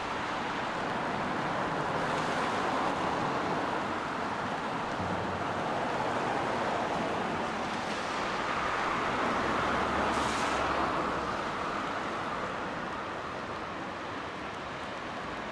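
Steady hiss of rain with traffic on a wet road, the tyre noise swelling and fading as cars pass. The loudest pass comes about two-thirds of the way through, with a brief sharp hiss.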